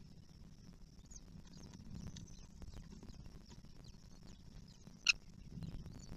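Birds chirping: scattered short, high chirps, with one louder, sharp call about five seconds in, over a steady high-pitched drone and a low rumble.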